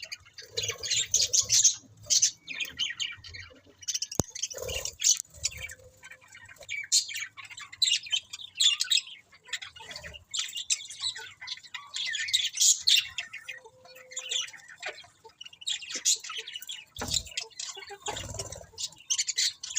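Budgerigars (budgies) chirping and chattering continuously, many quick high chirps overlapping.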